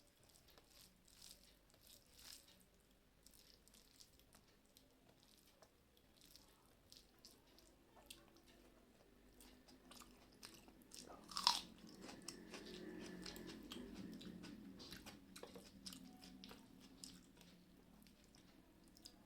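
Close-miked eating: quiet chewing and biting with soft crunches and small mouth clicks. About halfway there is one sharper click, followed by a low hum lasting several seconds.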